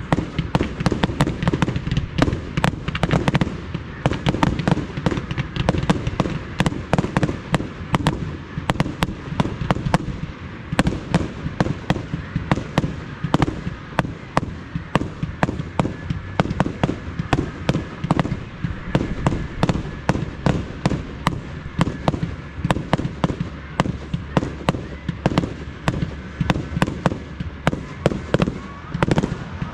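Professional aerial fireworks going off in a dense barrage: sharp bangs and cracks, several a second, with no let-up.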